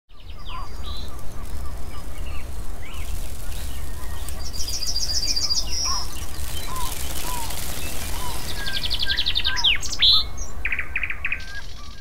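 Several wild songbirds singing and chirping, with fast trilled phrases and short call notes, over a steady low rumble.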